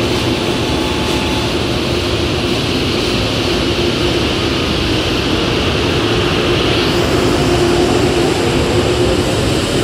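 N700S 9000-series prototype Shinkansen pulling out of the station: a steady loud rumble and hiss of the train rolling past, with the traction motors' whine rising in pitch over the last few seconds as it gathers speed.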